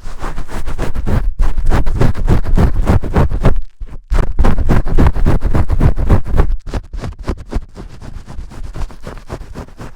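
Vigorous shampoo-scrubbing sounds: fast, scratchy rubbing strokes right against the microphone. They are loud for the first six and a half seconds, stopping briefly just before four seconds in, then go on more softly.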